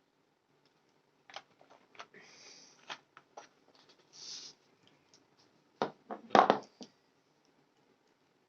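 Handling of drawing materials: scattered small clicks and two brief scratchy rustles, then a louder cluster of knocks and clatter near the end.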